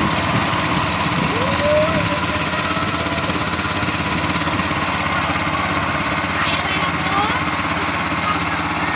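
Small boat engine running steadily, with faint voices in the background.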